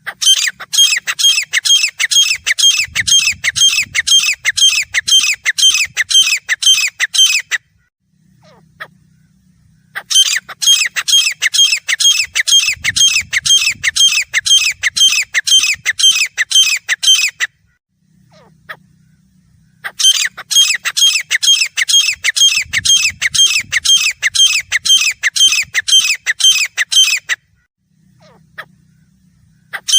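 Grey francolin calling: three long bouts of loud, rapidly repeated shrill notes, about three a second, each bout lasting some seven seconds with a short pause between, and a fourth bout starting right at the end.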